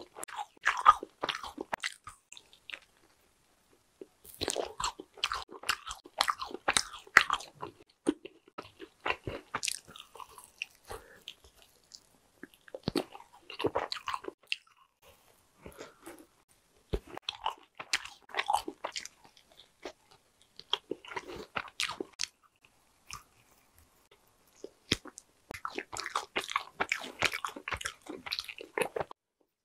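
Close-miked chewing and wet mouth smacking of a soft, sticky marshmallow, in bouts of clicky mouth noises separated by short pauses.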